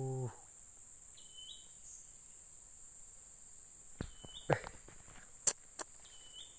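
Steady high-pitched buzz of insects, with a short rising chirp about a second in and again near the end. A few sharp clicks and knocks come between about four and six seconds in.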